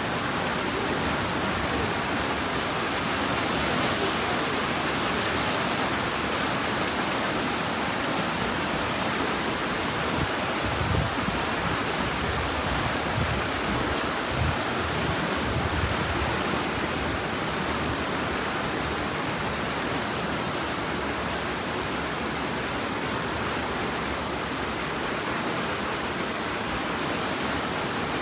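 Steady rush of flowing water, like a stream or waterfall, with a few low bumps about halfway through.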